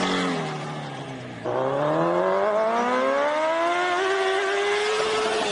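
Motor vehicle engine: its note falls off for about a second and a half, then the throttle opens and the pitch climbs steadily as it accelerates.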